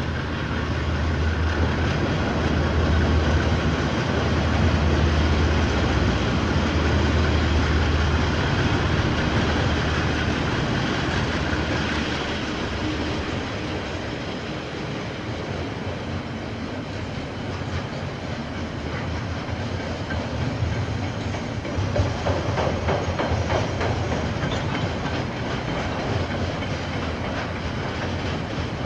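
KiwiRail diesel train passing. The locomotive's engine drone is strongest in the first several seconds, then the wagons roll by with wheels clattering over the rail joints, and the clacks grow sharper near the end.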